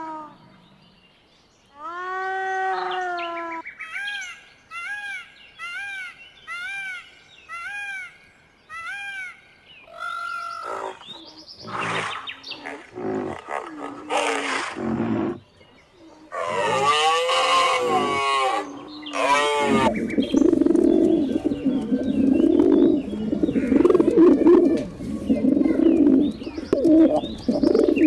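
A succession of different animal calls. First a long call, then a run of short repeated chirps at about one a second, then several louder calls, and in the last third a dense, continuous clamour of many animals.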